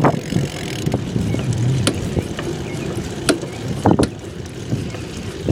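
Wind rushing over the microphone of a camera taped to a moving bicycle, with a few sharp clicks and rattles from the bike as it rolls.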